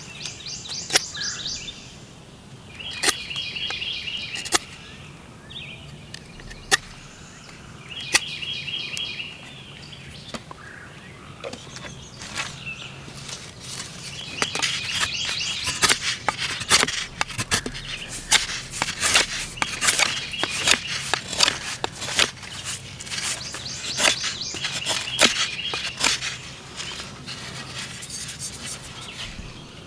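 A songbird singing a short trilled phrase over and over, every few seconds, against a run of sharp clicks and snaps that grow busier in the second half.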